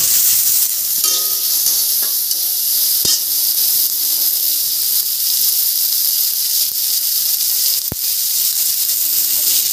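Chopped vegetables sizzling in hot oil in an iron kadai, a steady hiss, with the metal spatula knocking sharply against the pan twice, about three seconds in and near the end.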